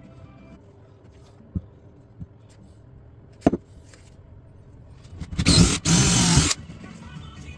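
A few sharp knocks, then a power tool runs loudly for about a second in two short bursts.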